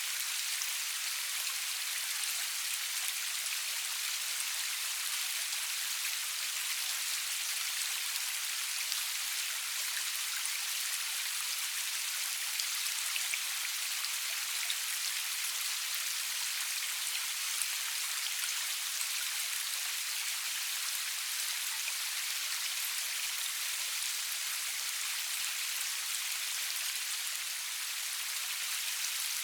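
Steady rainfall: an even hiss of rain with scattered individual drop ticks, no thunder.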